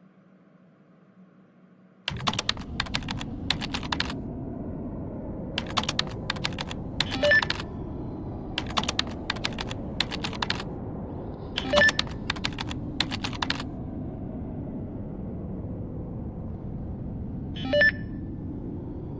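Typing on a keyboard: bursts of quick keystrokes over a steady low background hum, which starts about two seconds in. A brief ringing tone sounds three times among the keystrokes.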